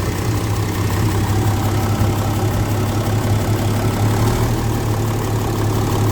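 An Isuzu 6WA1 inline-six diesel truck engine running at a steady idle.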